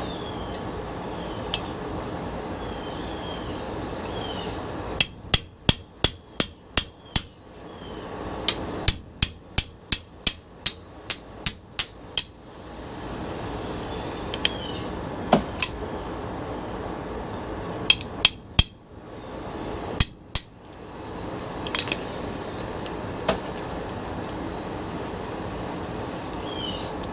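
Hammer blows on ceiling fan parts being broken down for scrap: a quick run of about seven strikes, a short pause, then about a dozen more, followed by a few scattered single strikes.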